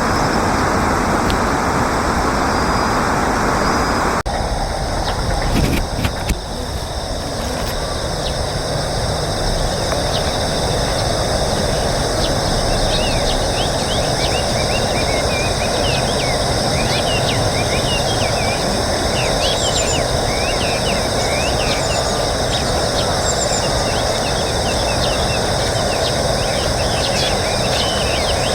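Steady rushing outdoor background noise, changing abruptly about four seconds in. From about twelve seconds on, many short high chirps come in over it.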